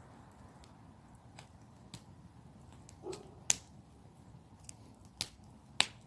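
Campfire wood crackling: irregular sharp pops over a quiet hiss. The loudest pop comes about three and a half seconds in, and two more come near the end.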